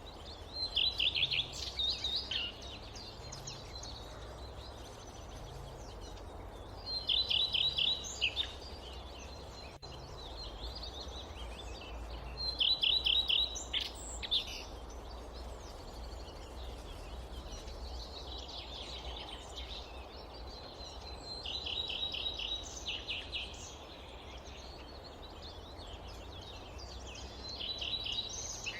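A songbird repeating a short phrase of rapid, evenly repeated notes about every five or six seconds. It sings over a steady low background noise of forest ambience.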